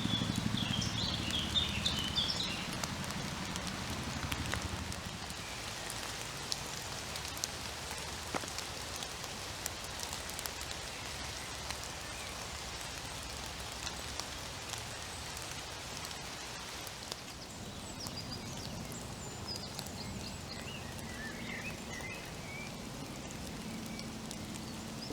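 Steady rain falling through woodland, with many separate drips ticking on leaves throughout. A low, distant aircraft drone sits under the rain at the start and again through the last several seconds. Brief bird chirps come in the first couple of seconds and again about twenty seconds in.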